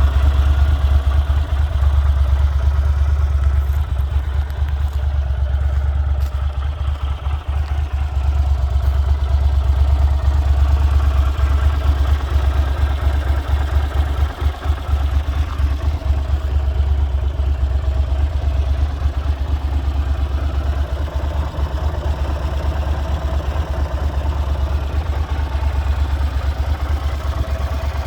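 1996 Yamaha TDM 850's parallel-twin engine idling steadily.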